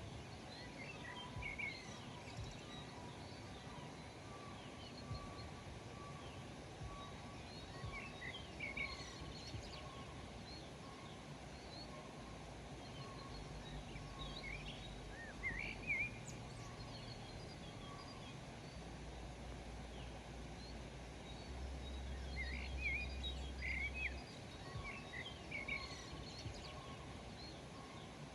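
Small birds chirping in short clusters every several seconds over a steady outdoor hiss, with a faint thin steady tone throughout. A low rumble swells for a few seconds past the middle.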